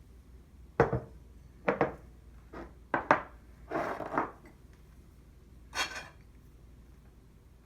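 Kitchen dishes and utensils handled: several separate knocks and clinks in the first three seconds or so, then two short scraping or rustling sounds.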